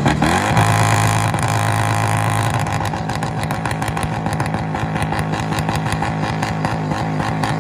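A Lexus car's engine is revved up quickly and held on its two-step rev limiter. It runs at a steady high pitch, and from about two and a half seconds in it breaks into a rapid stutter as the limiter cuts in and out.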